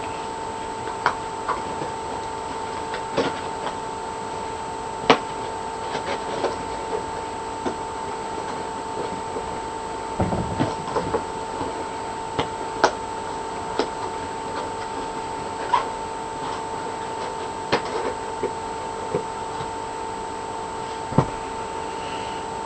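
Scattered light clicks and brief rubs from handling a plastic action figure and its packaging, over a steady hum and hiss.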